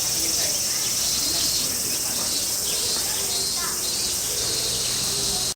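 Steady, high-pitched chorus of summer insects, with faint voices in the background.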